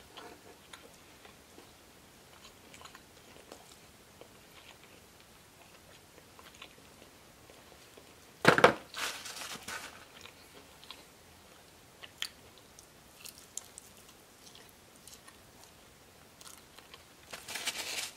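Close-up chewing and mouth clicks of someone eating fried chicken fingers. About halfway through there is a sudden loud noise, and near the end a longer rustle as a paper napkin is handled.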